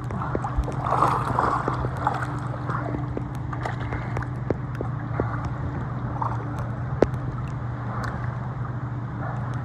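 Water sloshing and gurgling around an inflatable raft on a lake, with scattered small knocks and splashes over a steady low hum.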